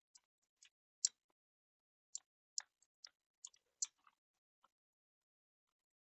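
Irregular light clicks and taps, about a dozen over six seconds with silence between them, the loudest about a second in: small parts or hand tools being handled during bench work.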